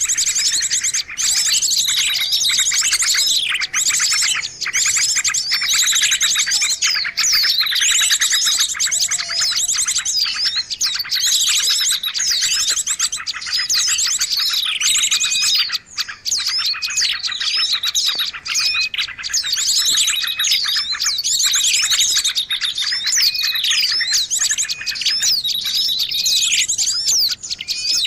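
Bird-lure recording of many small songbirds calling at once: a dense, unbroken chatter of chirps, very fast high trills and quick downward-sweeping notes.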